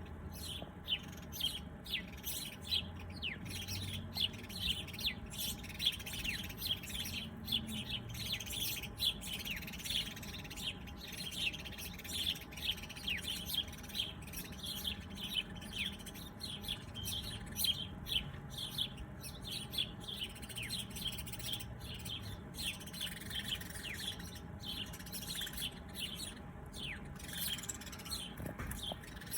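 Many small birds chirping together, a dense stream of quick, short chirps that each drop in pitch, overlapping without pause.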